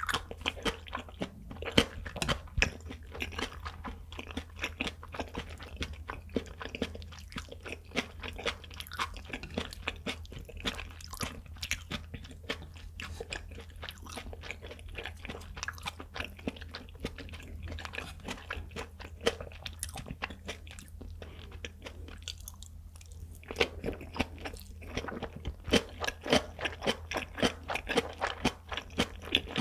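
Close-miked chewing of raw tuna nigiri sushi: soft, wet, clicky mouth and lip sounds in quick succession. They thin out a little past the middle, then come thicker again near the end.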